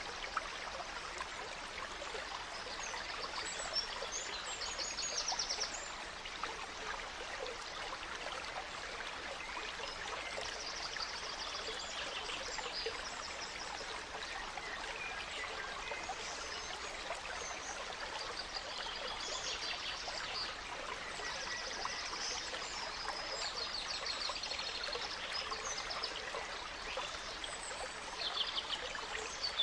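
Gentle stream flowing steadily, with forest songbirds singing quick high trills every few seconds.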